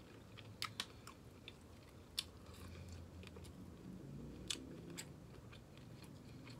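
Close-miked chewing of a mouthful of stuffed bell pepper: quiet, wet mouth sounds with a few sharp clicks and smacks.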